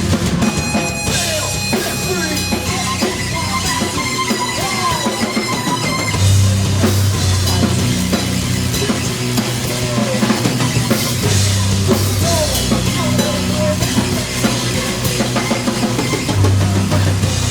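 Live rock band playing loud and steady, with drum kit hits and a sustained bass line that moves from note to note.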